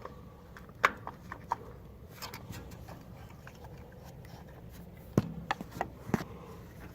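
Scattered sharp clicks and light knocks of metal parts and tools being handled while working on a tractor distributor: a single loud click about a second in and a cluster of knocks near the end.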